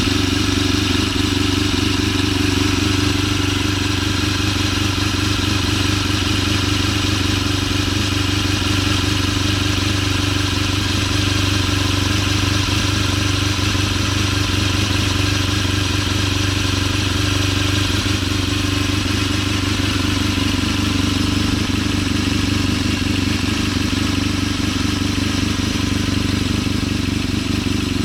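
Honda RVF750RR RC45 HRC superbike's 90-degree V4 engine idling at a steady, even pitch.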